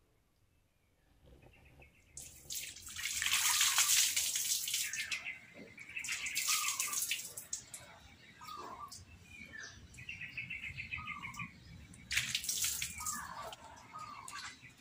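Birds chirping in short, repeated calls, with three loud spells of rushing hiss, the longest and loudest a few seconds in.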